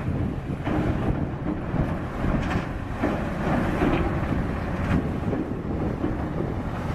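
Heavy snow-removal machinery rumbling, with wind buffeting the microphone and a few brief surges of hissing noise.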